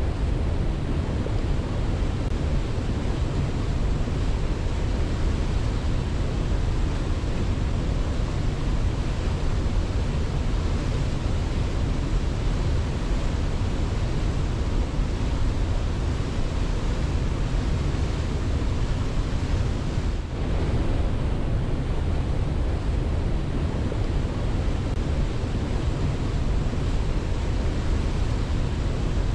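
Steady rushing water, a dense continuous roar heaviest in the low end, with a brief dip in level about twenty seconds in.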